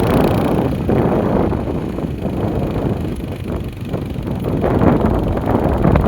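Wind buffeting the microphone: a loud, steady low rumble with scattered light knocks and rustles.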